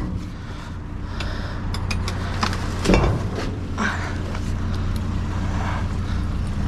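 Truck engine idling steadily, with scattered metallic clinks and one louder knock about three seconds in.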